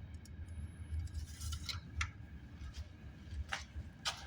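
Scattered light metallic clicks and clinks of tools and engine parts being handled, over a low steady hum.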